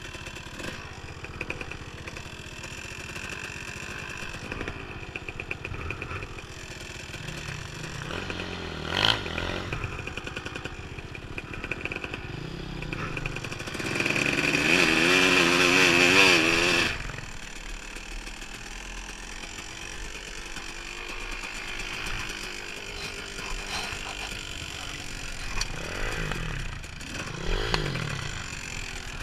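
Dirt bike engine running as the bike moves along a trail, with a louder revving spell of about three seconds around the middle where the pitch rises and falls, then back to a steadier, lower run.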